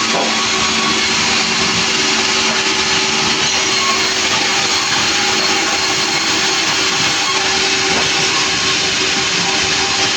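Sawmill running steadily: a loud, even mechanical din with a steady hum, unbroken throughout.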